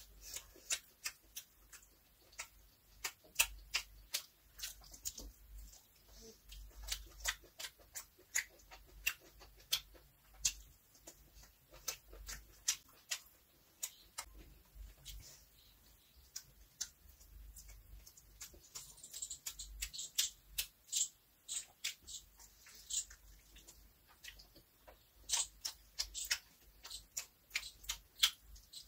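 A person chewing and smacking their lips while eating fried chicken and rice by hand: an irregular run of sharp, wet mouth clicks, several a second.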